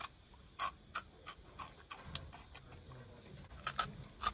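Crisp crunching of a fried banana fritter being bitten and chewed close to the microphone: a string of sharp, irregular clicks and crackles.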